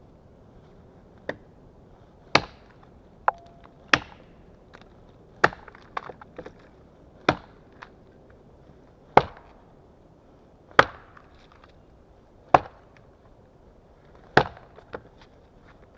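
Small hand axe chopping wood: single sharp blows, about one every couple of seconds, with a few lighter knocks in between.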